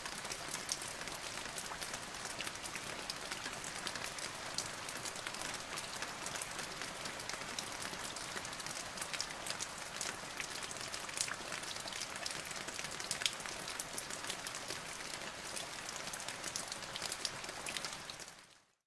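Rain falling steadily, a dense hiss with many sharp drop ticks, fading out about a second before the end.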